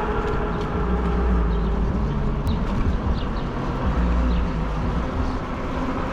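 Steady riding noise from a fat-tire e-bike under way: low rumble of wind on the microphone and tire hum on the road, with a faint motor whine.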